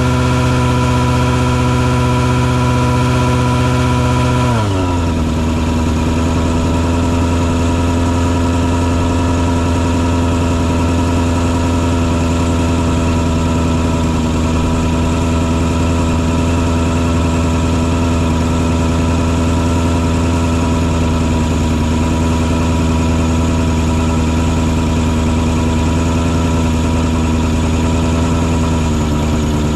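Engine on a mosquito-fogging truck running steadily. About four and a half seconds in it drops in speed and settles at a lower, even pitch, with a slight dip near the end.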